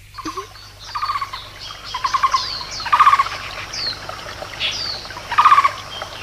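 Forest birdsong: short trilled calls repeating every second or so, mixed with high falling chirps, loudest about three seconds in and again near the end.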